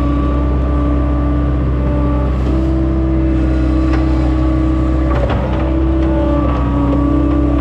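Farm machine's engine running steadily under load, with a whine that steps slightly up and down in pitch and a few short knocks, around two seconds and five seconds in.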